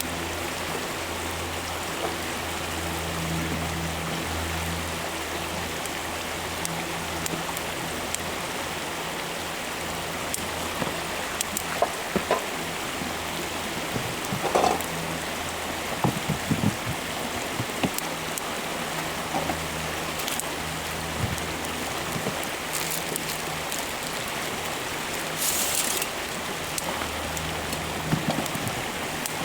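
Firewood of scrap lumber offcuts burning in a campfire: a steady crackling hiss with sharp pops every few seconds, and a short hiss about three-quarters of the way through.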